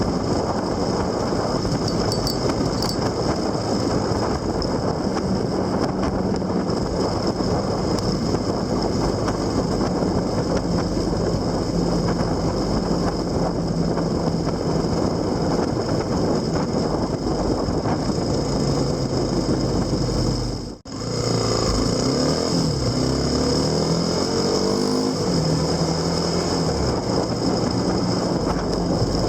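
Motorcycle engine running steadily under way, mixed with wind and road noise. The sound cuts out for an instant about two-thirds through, then the engine note rises and falls a few times as the speed changes.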